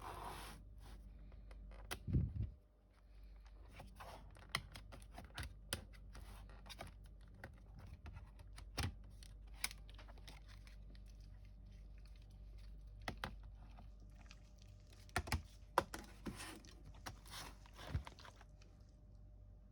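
Irregular light clicks, taps and knocks of a laptop being handled, with a louder thump about two seconds in, over a steady low hum.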